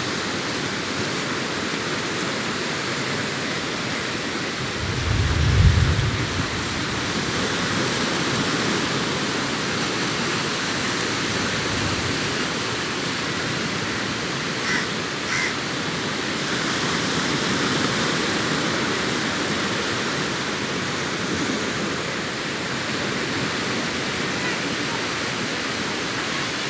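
Sea surf washing steadily onto a beach, an even rushing noise of breaking waves. A brief low rumble rises about five seconds in, the loudest moment.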